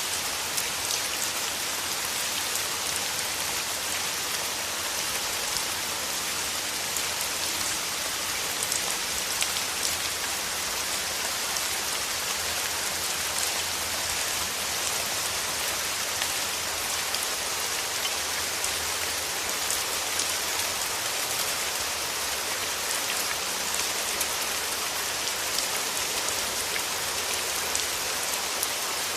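Steady rain falling through forest trees, an even hiss with many small drop patters.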